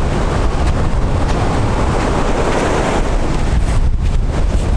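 Wind buffeting the microphone over a loud, steady low rumble, as when filming from a moving vehicle.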